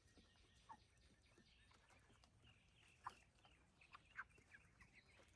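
Near silence with a few faint, short, scattered chirps from Cornish Cross meat chickens.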